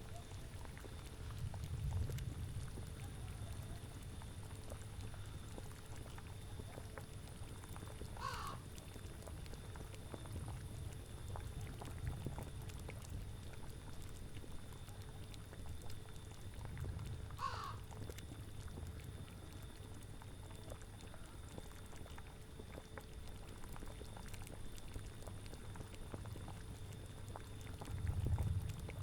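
Cauldron bubbling at a steady boil, with a low rumble that swells now and then. A crow caws once about eight seconds in and again about seventeen seconds in.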